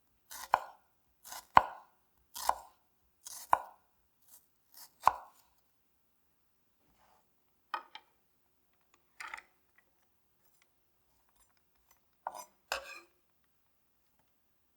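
Kitchen knife chopping on a cutting board: single cuts about once a second for the first five seconds, then a few scattered cuts further apart.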